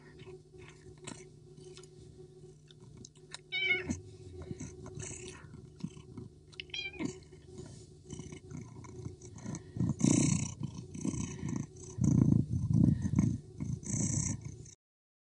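A cat meowing in short calls, three times in the first half, over a steady low hum. It is followed by louder rough, low bursts from about ten seconds in until the sound stops suddenly near the end.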